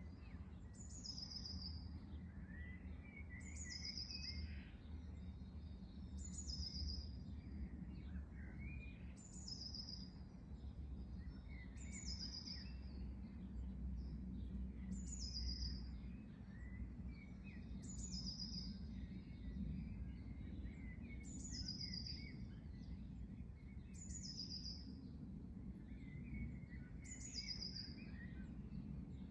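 A songbird repeating a short, high song phrase that falls in pitch, about every two to three seconds, with softer chirps from other birds and a steady low rumble underneath.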